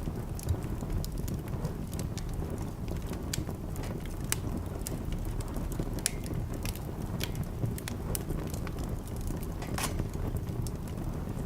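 Wood fire burning in a fireplace: a steady low rumble of the flames with frequent irregular crackles and pops of the burning logs.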